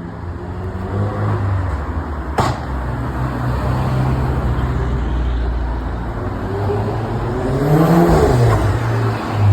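Car engine running with a low drone, a single sharp crack about two and a half seconds in, and a rev that rises and falls near the end.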